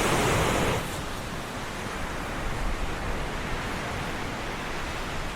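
Steady rushing outdoor noise, louder for about the first second and then even.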